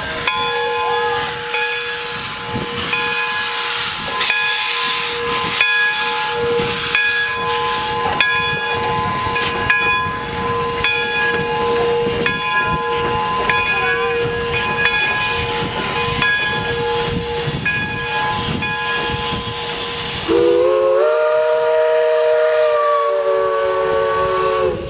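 Steam locomotive McCloud #18 hissing steam with a steady whistling tone. About twenty seconds in, its steam whistle blows one long chord of several notes, sliding up in pitch as it opens.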